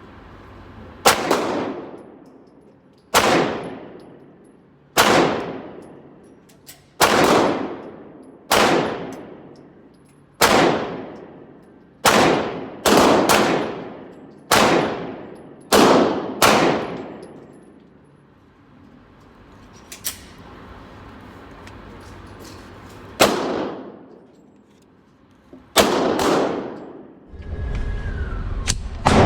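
Pistol shots from a 9mm Glock 19 Gen 4 fitted in a CAA Micro Conversion Kit carbine chassis, fired one at a time at a deliberate pace of roughly one to two seconds apart. Each shot has a ringing echo after it, and there is a short pause in the firing part-way through.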